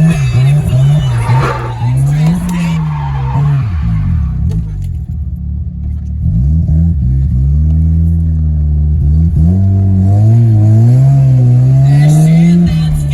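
Car engine revving hard, its pitch rising and falling over and over as in a drift run, with a quieter dip about four to six seconds in.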